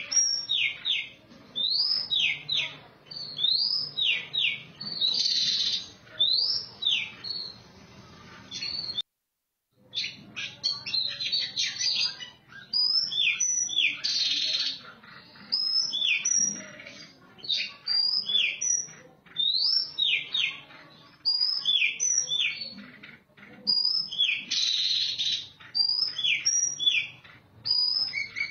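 Oriental magpie-robin (kacer) singing: a run of loud, clear whistled notes, many sliding down in pitch, repeated in quick phrases, with a harsh buzzy burst three times. The sound cuts out completely for about a second partway through.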